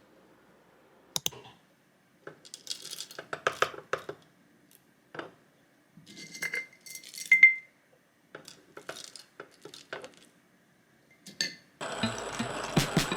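Light clinking and clattering of tableware being handled, in scattered bursts, with a couple of short ringing clinks about halfway through. Music comes in just before the end.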